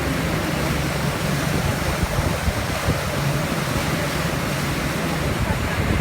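Steady rushing of wind and water around a moving boat under way, with a low steady hum underneath.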